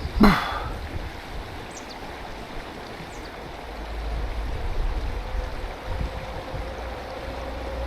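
Mountain stream running over rocks, a steady rush of water. A short loud sound comes just after the start.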